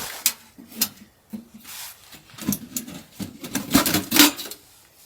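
A string of irregular knocks and clatters from objects being handled, loudest about four seconds in.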